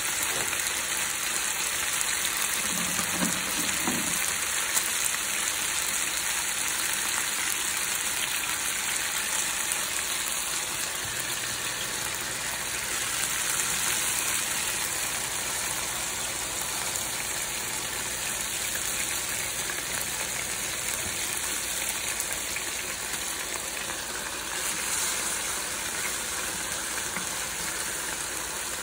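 Chicken leg quarters sizzling steadily in hot oil and pan juices in a nonstick frying pan.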